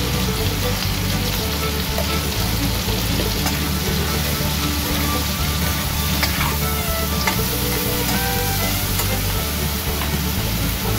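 Pork belly and green chili peppers sizzling in hot oil in a wok, a steady frying hiss. A spatula stirs and tosses them partway through, with a few short scrapes against the pan.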